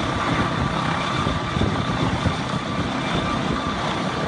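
Helicopter running with a steady engine and rotor noise and a rumbling low end.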